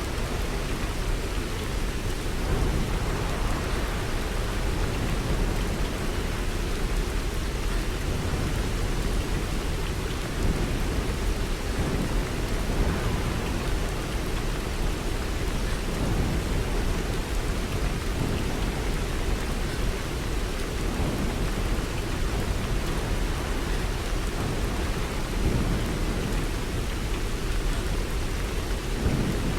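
Steady rain falling without a break, with its weight in a deep, even low rumble.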